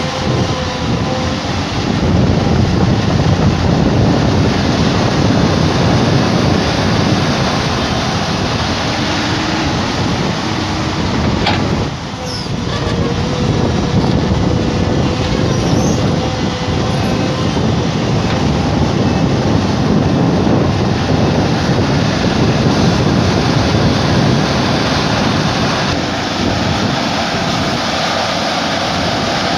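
Tata Hitachi excavator's diesel engine running loudly and steadily while the machine works, with one short sharp click about twelve seconds in.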